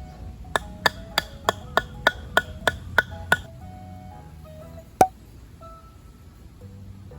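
A hammer driving metal tarp pegs into the ground: a quick, even run of sharp ringing strikes, about three a second, then one louder strike about five seconds in. Background music plays under it.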